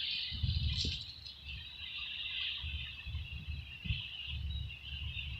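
Steady hiss of rushing river water, with irregular low thumps and rumbles on top.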